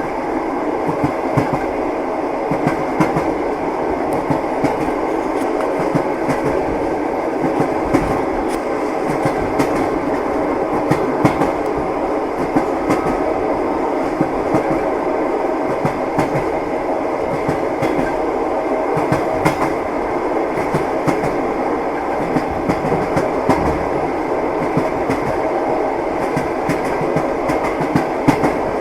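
Train running along the track: a steady rumble with the knocking of the wheels over the rail joints, sharp clicks coming through it again and again.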